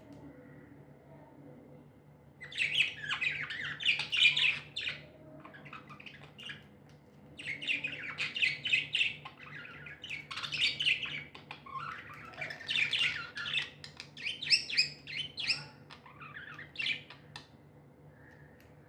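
Budgerigars chattering and chirping in quick, overlapping bursts of high notes, starting about two seconds in and going on with short pauses.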